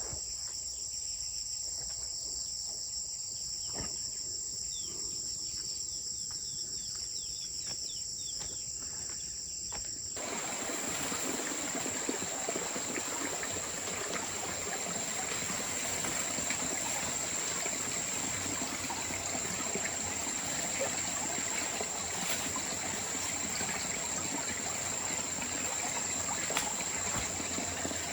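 Insects trilling steadily in high-pitched tones. About ten seconds in, a loud, steady hiss of water cuts in abruptly and runs on under the trilling.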